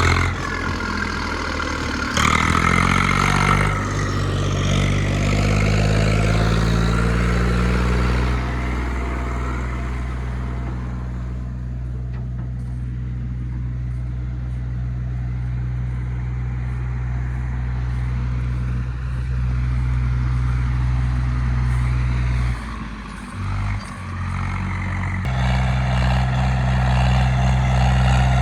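Tractor diesel engine running, its pitch climbing over the first few seconds, then holding steady. About 23 seconds in it briefly drops away, then comes back louder.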